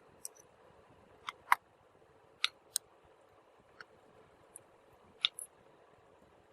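Irregular sharp clicks and taps from small hard objects being handled, about nine over six seconds, the loudest one and a half seconds in, over a faint steady hiss.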